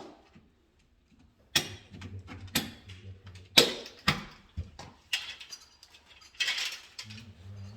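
Sharp clicks and knocks of tools and parts being handled during electrical wiring work, the loudest a little after three and a half seconds, with a short rustle later on. A low steady hum runs for about two seconds early on and comes back near the end.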